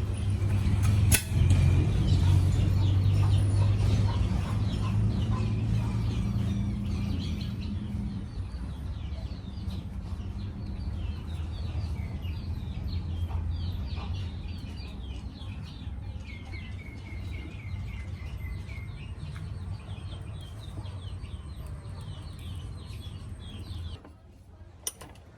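Many small birds chirping over a steady low hum; the hum is loudest at first and weakens after about eight seconds. A single sharp click about a second in.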